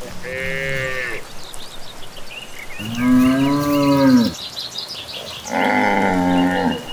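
Cattle mooing three times, each low call lasting about a second, the middle one the loudest, with birds chirping in between.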